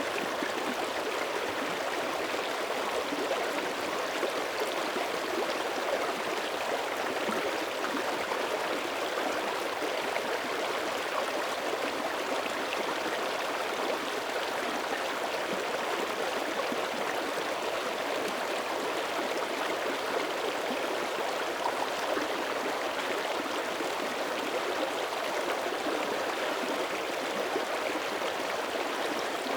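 Mountain creek running over rocks: a steady rush and burble of flowing water.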